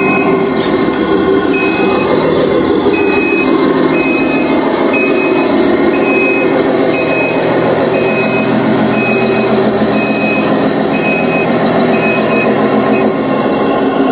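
A 22-wheeler truck's engine runs steadily while a reversing alarm beeps at an even pace, about one and a half beeps a second. The beeping stops shortly before the end.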